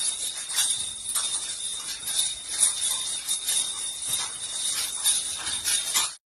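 Light metallic or glassy objects jingling and clinking irregularly over a steady thin high whine, typical of loose household items rattling while a building shakes in an earthquake. It cuts off abruptly near the end.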